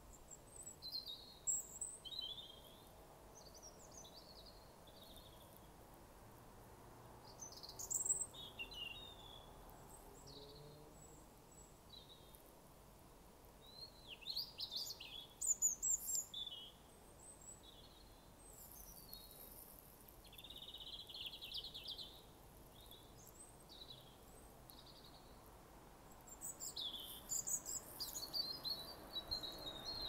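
Two songbirds singing back and forth in short, varied, high-pitched phrases, with brief gaps between bursts, over a faint steady background hum.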